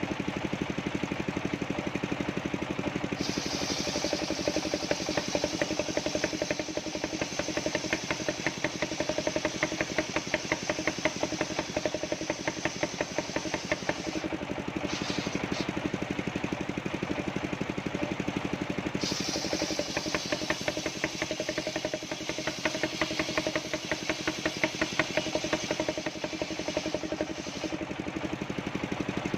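The engine of a mobile sawmill running steadily. From a few seconds in until a little past the middle, a higher sawing sound rides over it, with a short break partway, as the saw cuts through coconut-palm wood.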